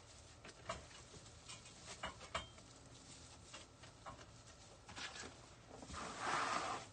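Rustling and handling of evergreen wreath greenery: scattered small clicks and ticks, then a louder rustle near the end.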